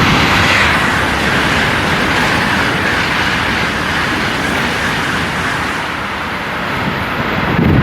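High-speed TGV train passing through the station at speed: a loud, steady rush of air and wheel noise. Near the end, gusts of wind from its slipstream buffet the microphone.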